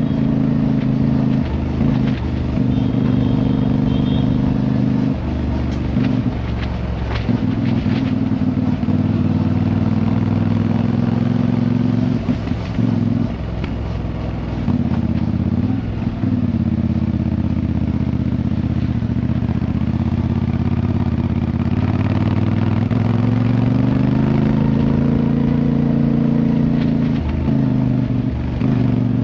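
Motorcycle engine running under way, its pitch stepping up and down several times as the revs change.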